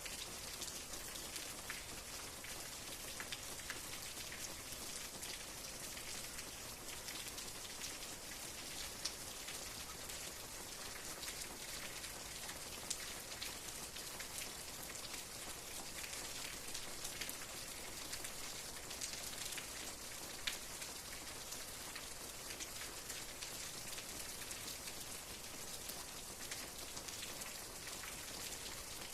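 Steady rain falling, a dense even patter of drops with a few louder single drops standing out.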